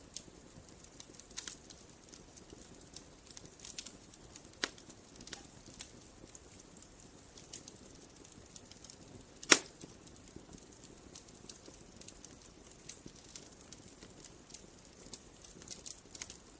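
Wood fire crackling: scattered small pops and snaps over a faint hiss, with one loud sharp pop a little past halfway.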